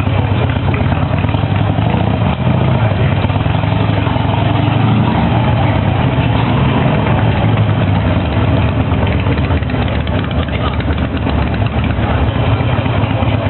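Harley-Davidson V-twin motorcycle engine running steadily, with an even low pulsing beat.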